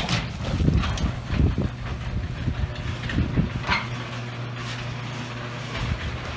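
Garage door running on its electric opener: a steady motor hum, with low rumbles and knocks from the moving door in the first few seconds.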